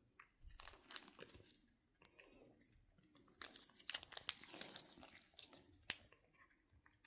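Faint rustling and crinkling of a grocery bag as cats poke and nose at it, in irregular bursts with sharp crackles, busiest around the middle and with one sharp crack about six seconds in.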